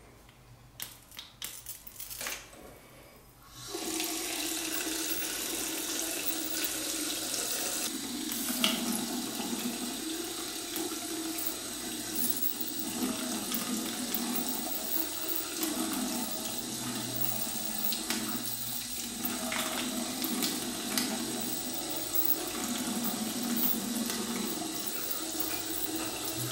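A few light clicks, then a tap turned on about four seconds in and water running steadily. The water is run over a lit USB plasma arc lighter to show that water does not put it out.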